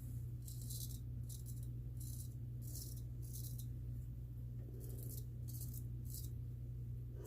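Straight razor scraping through lathered stubble in a series of short strokes, with a pause about halfway through.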